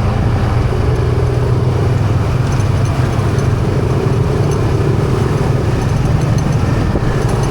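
Yamaha PG-1's small single-cylinder engine running at a steady speed while riding, mixed with road and traffic noise.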